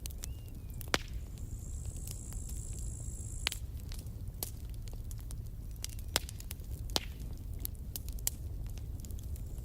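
Campfire crackling: scattered sharp pops and snaps over a low steady rumble. A thin high hiss starts about a second in and lasts around two seconds.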